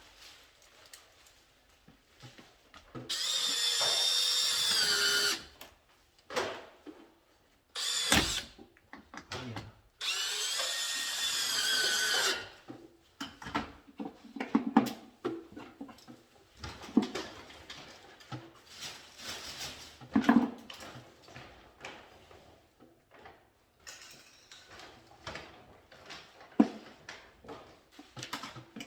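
Electric screwdriver running in two bursts of about two seconds each, with a short blip between, the pitch sagging at the end of each burst as it drives screws. Small clicks and knocks of handled parts come in between.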